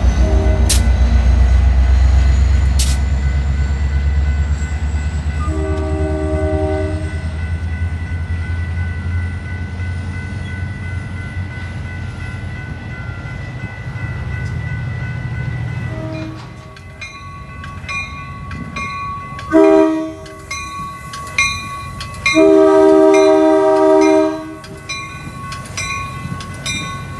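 A Metra diesel commuter train rumbling past a grade crossing, the engine noise slowly fading as it goes, with a brief horn blast a few seconds in. Then the crossing bells ring rapidly and steadily while an approaching train sounds its horn twice, a short blast and then a longer one of about two seconds.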